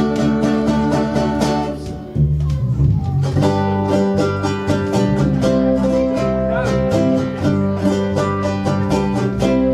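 Live acoustic band of strummed ukuleles and other plucked strings playing a song in a steady rhythm, with a short break about two seconds in before the strumming picks up again.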